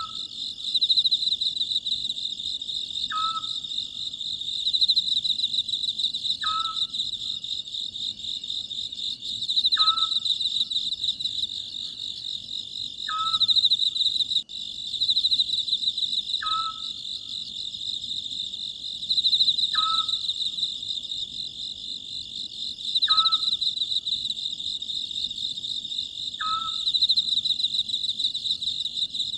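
Oriental scops owl calling, one short note repeated about every three seconds, over a steady chorus of chirring crickets.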